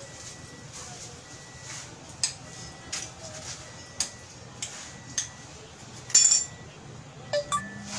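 A series of sharp metallic clinks and knocks at irregular intervals, with the loudest cluster a little after six seconds in, over a steady low hum.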